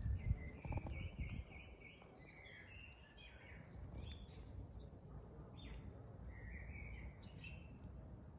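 Small birds chirping with short, scattered calls over a low outdoor rumble that is loudest in the first second or so.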